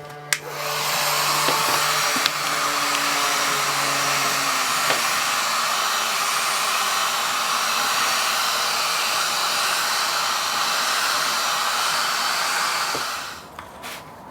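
A steady rush of blowing or spraying air for about 13 seconds, starting just after a click and stopping suddenly near the end.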